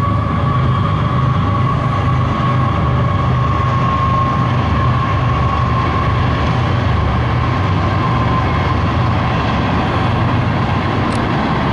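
CSX freight train rolling past on the rails: a continuous steady rumble of wheels and cars, with a high steady ringing tone over it that fades out after about seven seconds.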